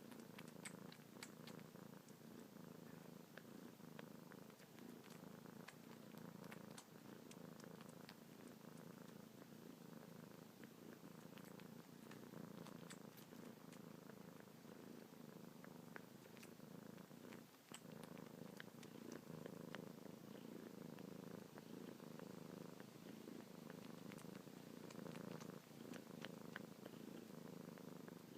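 Kitten purring softly and steadily while suckling on a finger, with scattered faint clicks throughout.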